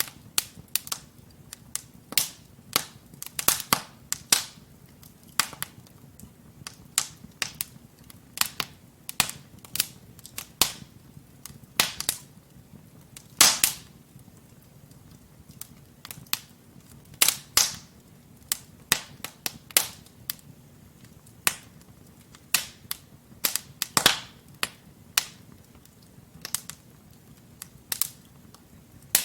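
Wood fire crackling in a fireplace: burning logs give irregular sharp pops and snaps, several a second at times, over a faint low hiss of the flames.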